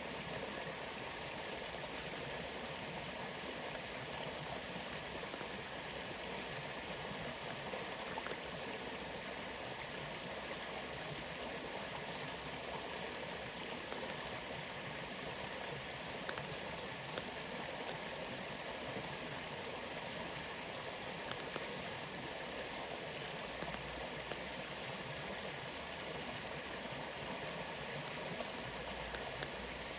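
A waterfall and rain making a steady rush of falling water, with a few louder drops standing out now and then.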